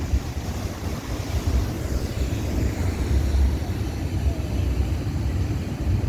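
Wind buffeting the microphone as a low, fluttering rumble, over a steady hiss of street traffic.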